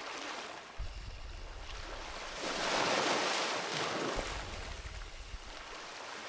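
Sea waves washing onto a shore: a soft rush of surf that swells about two and a half seconds in and then eases back.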